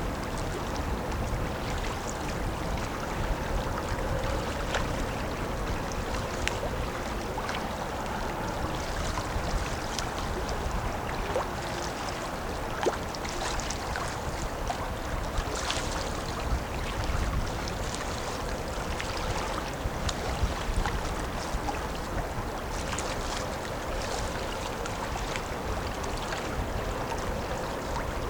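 The passing oil/chemical tanker's steady low engine rumble, with a faint steady hum and a few small clicks over it.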